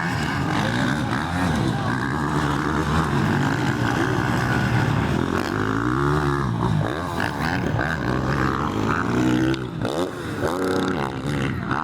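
Several motocross dirt bikes racing, their engines revving up and down over and over, the pitch rising and falling as they shift and pass.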